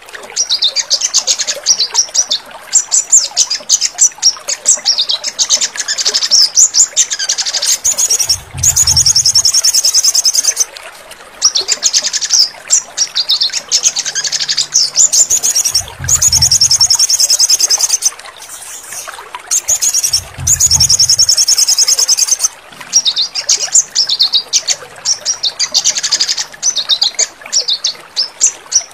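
Sogon songbird singing: rapid high chirping phrases alternating with long, dense trills, repeated again and again with short gaps. It is a therapy recording used by bird keepers to get caged birds that have gone quiet singing again.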